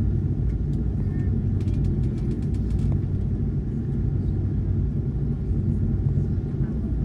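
Steady low rumble of an Airbus A330-200 airliner heard from inside the passenger cabin, with a few faint light rattles about one and a half to three seconds in.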